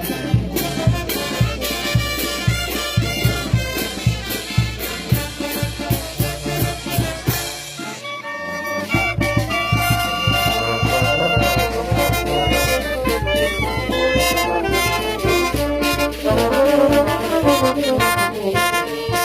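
Brass band music with trumpets and trombones over a steady beat; it breaks off briefly about eight seconds in, then the brass melody resumes.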